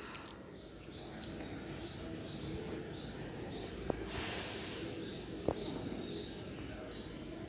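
A bird chirping over and over, short high chirps about two or three a second, over faint outdoor background noise, with a brief hiss about four seconds in.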